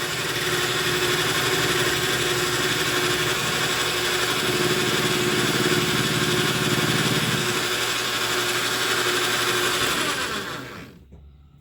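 Lathe motor running steadily with a humming whine while face milling a copper bolt, with a rougher stretch of about three seconds in the middle. Near the end the machine shuts off and winds down to quiet.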